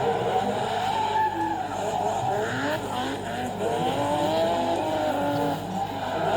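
Drift car engine revving with tyre squeal, its pitch gliding up and down again and again.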